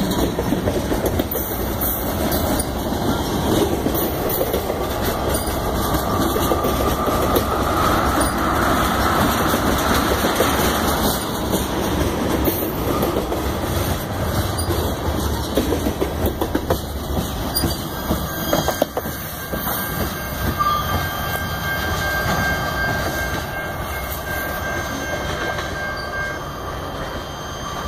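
Freight cars, tank cars and covered hoppers, rolling past close by: a steady rumble with steel wheels clattering over the rail joints. From past the middle a thin, steady high wheel squeal joins in, and the sound eases off slightly toward the end as the train moves away.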